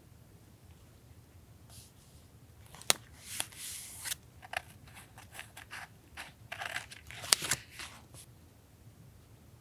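Scissors cutting paper, a run of snips and paper rustles with a few sharp clicks of the blades, for about six seconds.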